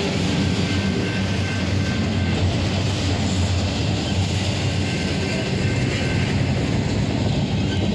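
Intermodal freight train rolling past at a steady pace, a continuous rumble of wheels on rail that holds an even level.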